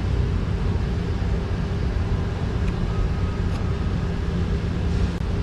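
Steady low mechanical hum, with a few faint ticks over it.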